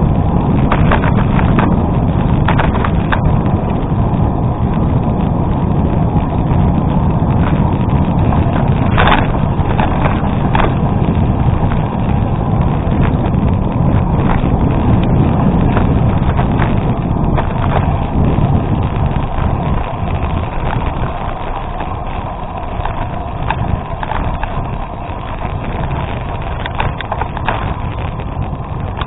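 Gravel bike riding over an unpaved gravel road: a steady low rush of wind on the microphone and tyre rumble, with scattered clicks and rattles from stones and the bike. It eases off somewhat in the last third.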